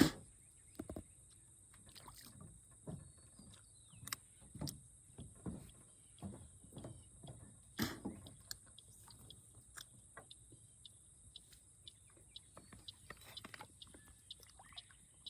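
Brim (bream) hitting sunflower seeds at the water's surface: a string of small, irregular splashes and pops, over a steady high-pitched hiss.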